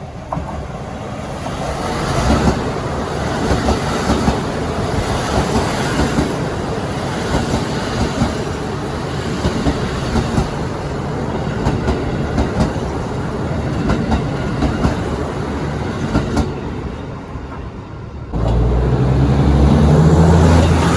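Train passing over rail joints: a long run of wheel clacks over the joints on top of steady rolling noise. About 18 seconds in it breaks off and a louder, low steady engine drone starts abruptly.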